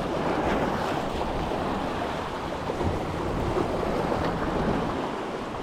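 Ocean surf washing steadily, with wind blowing across the microphone.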